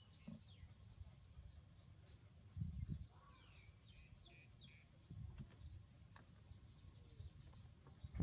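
Faint high bird chirps and short falling calls over a low outdoor rumble, which swells briefly twice.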